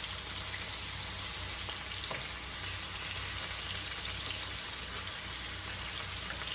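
Chopped chicken pieces sizzling steadily as they brown in hot oil, a constant frying hiss with small crackles.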